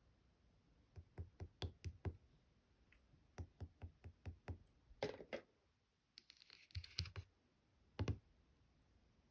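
Marbled slime being pressed and mixed by hand: runs of small sticky pops and clicks, about four or five a second, a short crackly squish in the middle, and a last pop near the end.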